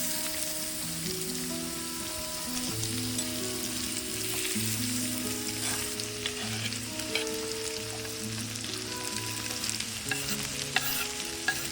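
Garlic sizzling in a hot pot, a steady frying hiss, with a few sharp utensil clicks near the end. Soft sustained music notes play underneath.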